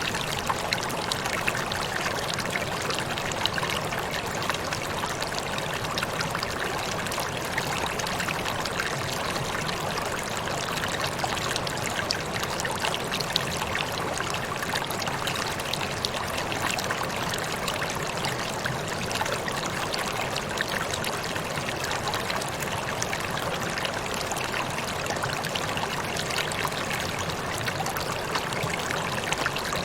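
Waterfall: falling water splashing steadily, an even rushing hiss with fine spattering and no change in level.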